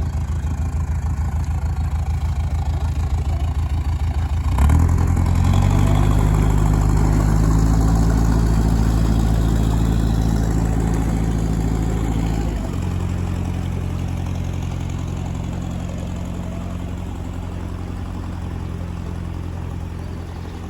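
Canal boat engine running steadily, opening up about four and a half seconds in, then dropping back to a lower, slowly fading run after about twelve seconds.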